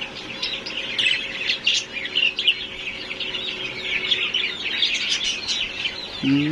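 A flock of caged budgerigars chattering, a dense continuous mix of quick chirps and warbles. A faint steady hum runs underneath.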